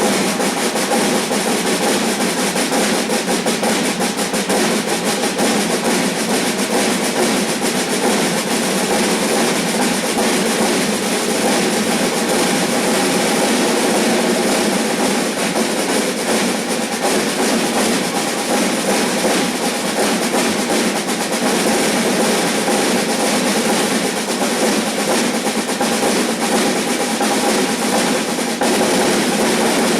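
Snare drums played in a fast, unbroken stream of strokes at an even level, imitating a train running along the rails.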